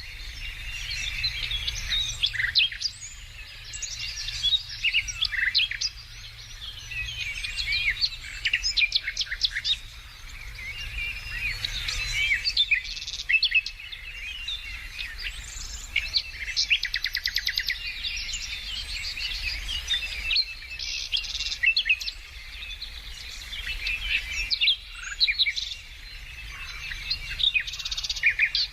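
Several songbirds singing at once: overlapping chirps, whistled phrases and rapid trills, with a low steady rumble underneath.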